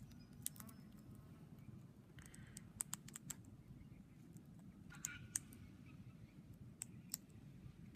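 Near silence broken by scattered faint sharp clicks, some in quick clusters of two or three.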